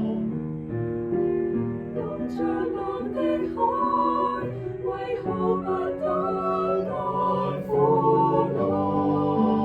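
Small four-part mixed choir of sopranos, altos, tenors and basses singing in Cantonese with piano accompaniment, holding and moving through sustained chords.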